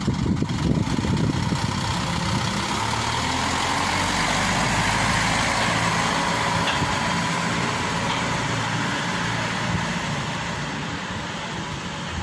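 Diesel engine running steadily, swelling a little and then fading toward the end.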